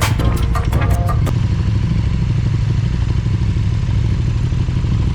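Background music that cuts off about a second in, giving way to a KTM 1290 Super Duke R's V-twin engine running steadily at a constant low speed.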